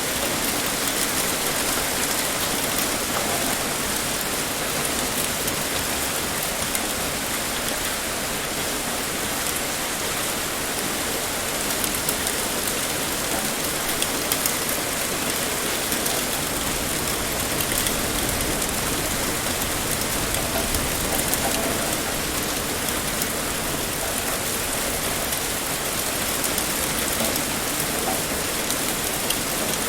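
Heavy rain pouring steadily, with an even hiss and scattered drop impacts.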